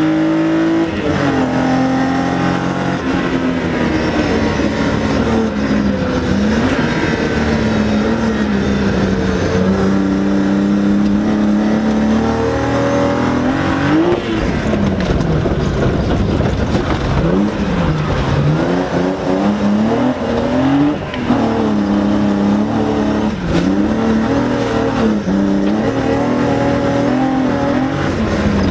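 BMW E30 rally car's engine heard from inside the cabin, revving up and dropping back again and again as the car is driven hard through gear changes. There are a couple of sharp knocks about two-thirds of the way through.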